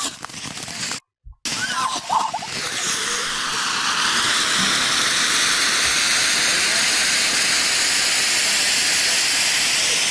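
A lit firework hissing steadily as it throws sparks, the hiss building about two seconds in and holding without a break; the sound drops out briefly about a second in.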